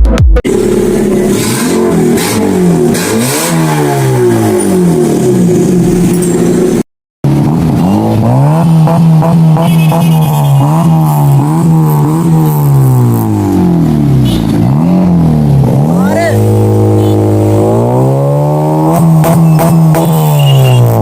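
Honda Civic with an aftermarket HKS exhaust, the engine revved up and down repeatedly. Its exhaust note climbs, holds and falls several times. The sound cuts out briefly about a third of the way in.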